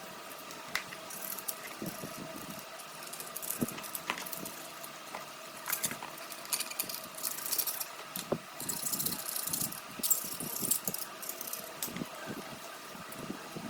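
Hand work on small hard parts: scattered clicks, knocks and rattles, with several short bursts of hissing over a faint steady hum.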